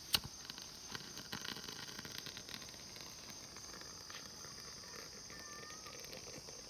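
Steady high-pitched chirring of crickets and other insects. A single sharp click comes just after the start and a scatter of small ticks follows over the next two seconds.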